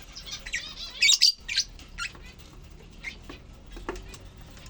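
Lovebirds chirping: a run of short, sharp high-pitched calls, loudest in a quick cluster about a second in.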